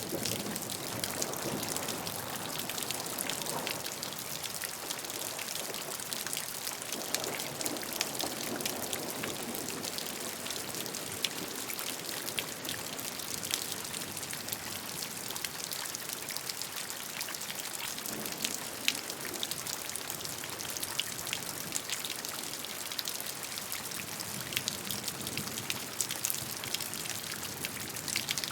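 Steady rain falling, a dense hiss full of fine clicks of individual drops hitting a surface.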